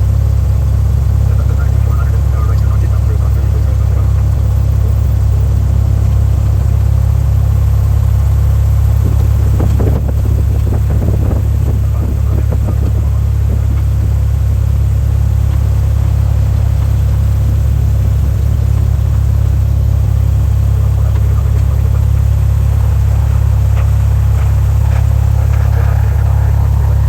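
Light aircraft's piston engine and propeller running steadily, a loud, constant low drone heard from inside the cockpit.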